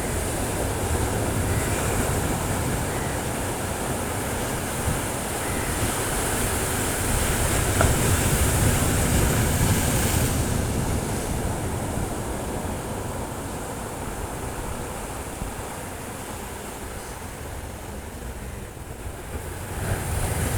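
Sea waves washing onto a rocky shore: a surge of hissing surf swells to a peak about halfway through, then ebbs, and another wave starts to build near the end.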